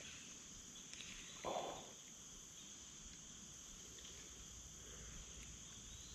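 Faint, steady chorus of crickets chirring at high pitch. A brief soft noise comes about one and a half seconds in.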